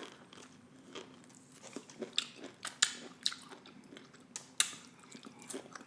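Close-miked chewing, with scattered sharp wet mouth clicks and smacks.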